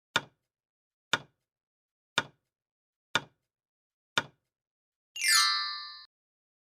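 Countdown sound effect: five sharp knock-like ticks about a second apart, then a bright chime that sweeps down in pitch, holds, and cuts off suddenly.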